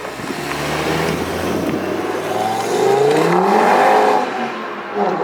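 A car engine revving as it accelerates. Its pitch climbs to its loudest about four seconds in, drops away, then picks up again near the end.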